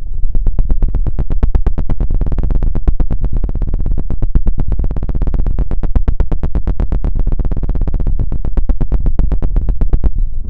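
Very fast, loud scratching strokes on an ASMR microphone, about fifteen a second, with a heavy booming low end; they stop abruptly near the end.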